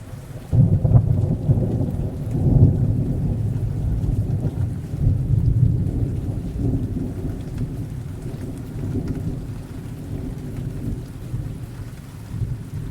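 Thunderstorm: a deep rolling thunder rumble breaks in sharply about half a second in, swells twice and slowly dies away over the following seconds, over steady rain. Another rumble begins to build near the end.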